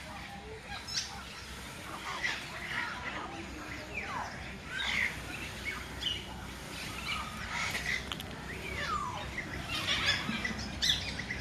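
A busy chorus of many birds calling and chirping at once, overlapping, with several short calls that slide quickly downward in pitch.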